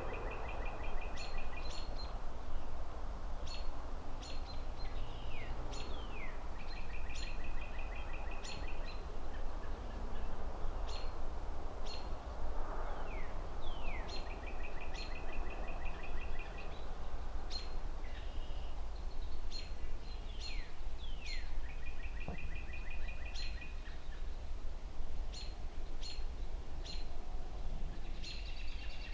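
Birds calling over a steady low hum of distant city traffic. A call pattern of a few quick falling notes followed by a rapid trill repeats about every seven or eight seconds, with short high chips in between.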